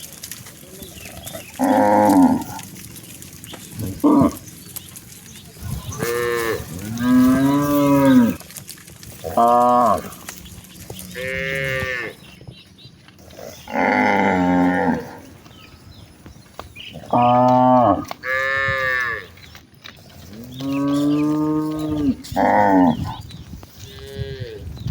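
Several domestic cattle mooing one after another, about a dozen separate moos. Some calls are short and others long, some rise and fall in pitch.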